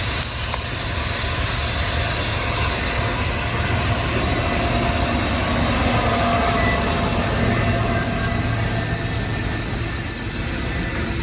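CSX freight train cars rolling past with a steady low rumble, their wheels giving off thin, high squealing tones.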